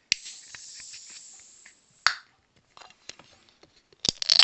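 An aluminium drink can's ring pull cracked open: a sharp click, then a fizzing hiss of escaping carbonation that fades over about two seconds. A single knock follows, and a short loud burst of clicks and rustle comes near the end.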